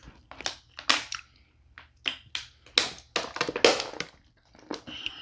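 Close-miked eating sounds: an irregular string of sharp wet clicks, smacks and crunches as corn on the cob is bitten and chewed.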